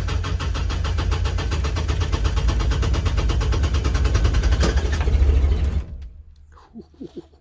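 Kubota RTV900's three-cylinder diesel engine being cranked by its starter in a −8 °F cold start, turning over in a steady rhythmic pulse without catching, then stopping abruptly near the end. The owner blames the failed start on summer fuel left in the tank in the deep cold.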